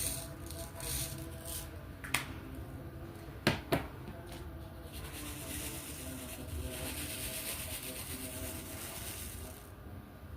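Diamond painting work sounds: sharp plastic clicks as drills are picked up and pressed onto the canvas, one about two seconds in and a quick pair about a second later, then several seconds of soft rustling hiss.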